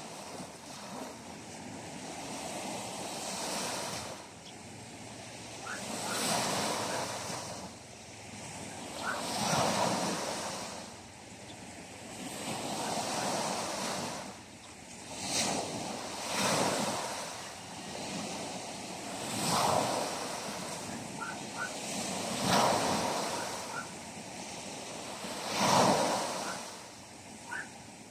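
Sea waves washing onto the shore, the surf swelling and falling back about every three seconds.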